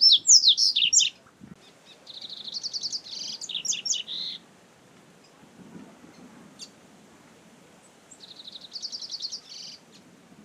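Double-collared seedeater (coleiro) singing three song phrases, each a quick run of rapid repeated notes that climbs into higher, louder notes. The first phrase, right at the start, is the loudest. A faint low background noise runs underneath.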